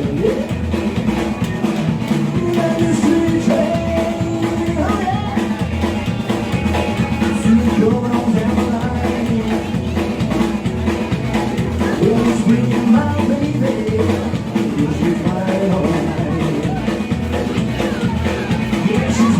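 Live band of electric guitar, bass and drum kit playing an uptempo rock-and-roll number with a steady driving beat.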